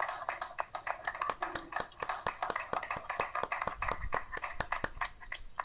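Scattered hand clapping from a few people, carried over a video-conference call's audio, as irregular sharp claps several times a second, with faint voices in the background.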